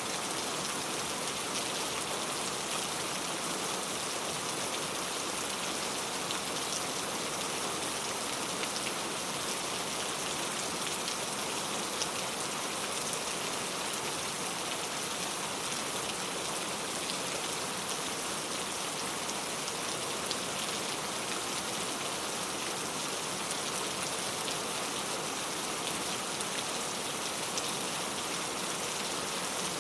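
Steady rainfall, a continuous hiss of rain with scattered individual drop ticks.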